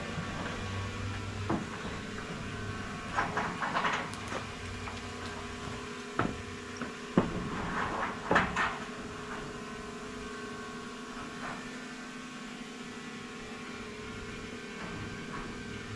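Scattered knocks and clunks from work with roof panels, a few at a time and loudest in the first half, over a faint steady hum.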